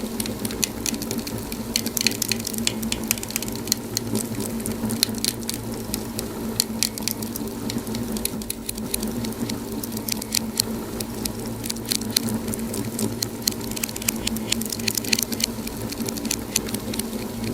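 Wood fire crackling in a fireplace, with many quick, sharp pops and snaps scattered irregularly, over a steady low hum.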